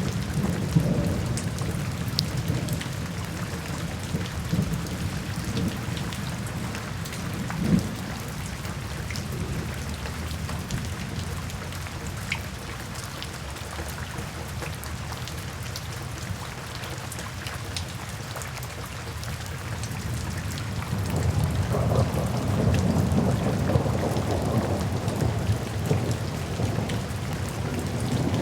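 Steady rainstorm with rolling thunder: continuous rain hiss over a low rumble that eases off mid-way and swells louder again about three quarters of the way through.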